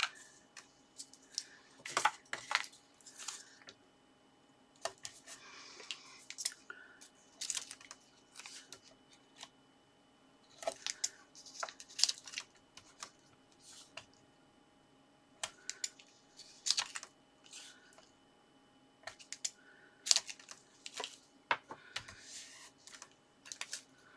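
Paper and card being handled and stuck together: irregular taps, clicks and short rustles, with several sharper clicks spread through.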